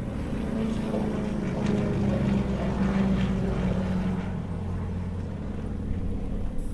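Propeller aircraft engine droning as the plane flies a display pass, growing a little louder a couple of seconds in and then holding steady.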